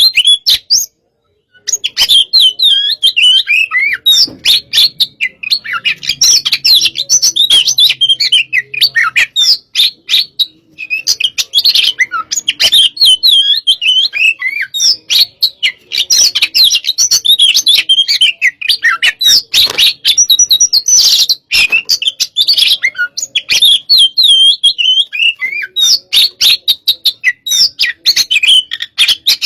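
Oriental magpie-robin (kacer) singing a fast, aggressive 'hot-type' song: a rapid, almost unbroken stream of high whistles and chattering notes. The song breaks off briefly about a second in and again around ten seconds in.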